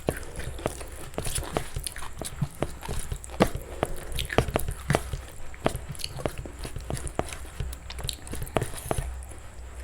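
Close-miked eating: chewing and biting crunchy food, with many quick crisp crackles and clicks.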